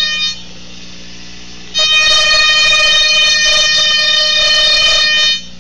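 Steady electronic whine with many overtones from a colour-changing novelty radio, amplified through a guitar amp over a constant low amp hum. It drops away just after the start, comes back loud about two seconds in, and cuts off near the end. The owner suspects the noise comes from the radio's colour-changing lights.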